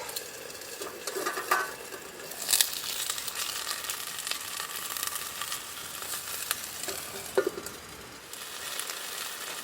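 Teriyaki chicken sizzling in a frying pan as it is cooked further, being still a little raw inside. Three sharp knocks sound over the sizzle, the loudest about two and a half seconds in.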